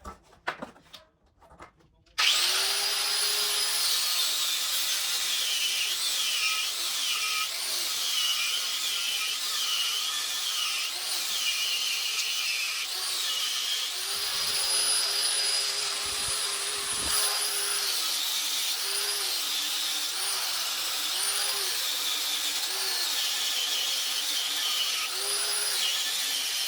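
Handheld electric power tool switched on about two seconds in and worked against the metal of an AMC Model 20 axle housing, its whine dipping in pitch again and again as it is pressed into the work, then holding steady for a few seconds midway. It is cleaning off old peeling paint down to bare metal for welding.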